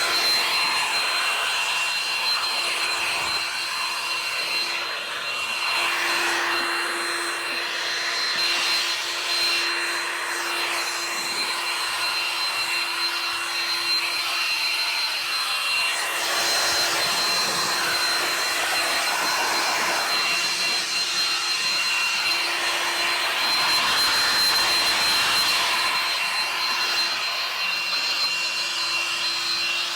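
Electric blower motor running steadily, a rushing of air with a high, steady whine, used for drying the boat.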